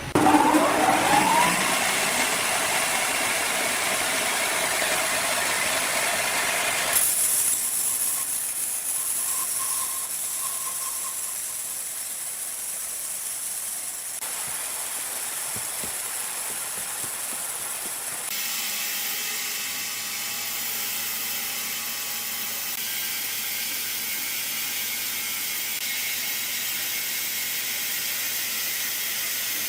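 Woodworking plant machinery running steadily with a hiss. Near the start a motor speeds up with a rising whine, and the machine sound changes abruptly several times.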